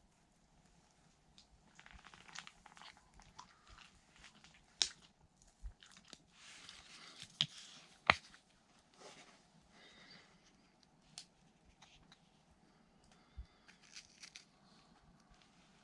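Quiet, intermittent rustling and crunching with a few sharp clicks and knocks, the loudest about eight seconds in.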